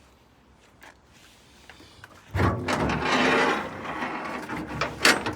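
Handling noise: a loud scraping, sliding sound starting about two seconds in, then two sharp knocks near the end, like a panel or door being moved and set down.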